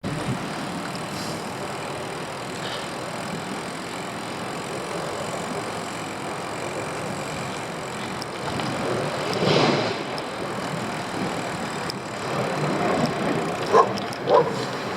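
Steady road and traffic noise, with a vehicle passing about nine to ten seconds in and two short, sharp sounds near the end.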